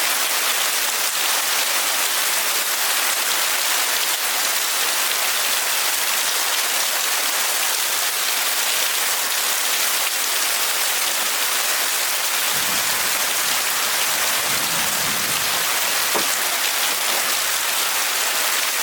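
Steady heavy rain, an even hiss of falling water. A low rumble joins in for a few seconds past the middle.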